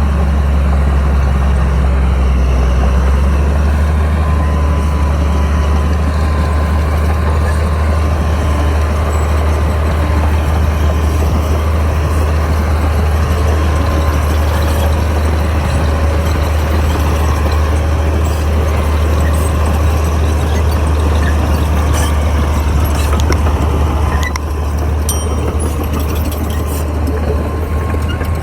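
Crawler bulldozer's diesel engine running steadily under work, a heavy low hum, easing off a little near the end.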